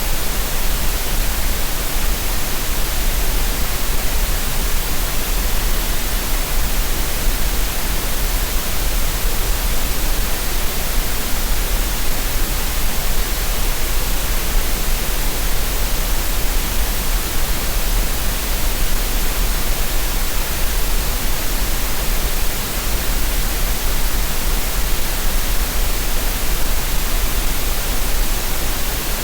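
Synthetic green noise for relaxation and tinnitus masking: a steady, even hiss with no changes, carrying a strong deep rumble beneath it.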